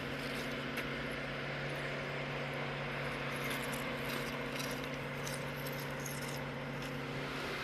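A steady, low mechanical hum over an even hiss, with a few faint light clicks. The hum stops shortly before the end.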